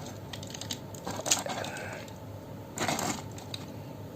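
Small hard plastic model-kit parts clicking and clacking as they are handled and fitted together, with a louder clatter about three seconds in.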